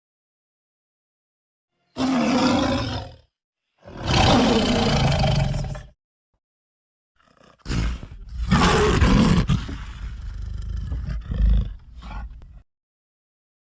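Stock lion roar and snarl sound effects: three separate roars with silences between them, a short one about two seconds in, a longer one just after, and a longest, rough snarling roar from about seven seconds in that cuts off near the end.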